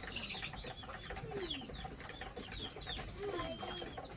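A flock of chickens calling: many overlapping short, high, falling peeps and chirps, with a few lower drawn-out calls mixed in.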